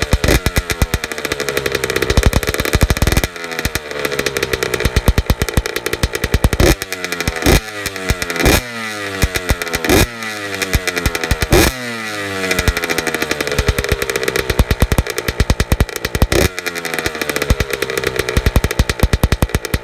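Honda CR80R's 80cc single-cylinder two-stroke engine running while it warms up from a cold start. It is revved in a string of sharp throttle blips, and after each one the pitch slides back down toward an uneven idle.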